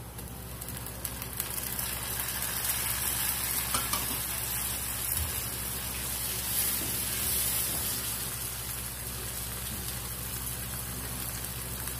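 Sliced onions and green chillies frying in hot oil in a non-stick wok, with chopped tomatoes just added. The sizzle grows louder about a second in as the tomatoes go in, and a spoon stirs them through.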